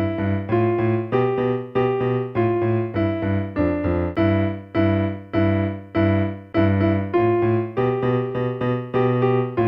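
Electronic keyboard with a piano sound, played with both hands: a steady run of evenly spaced struck notes over bass notes.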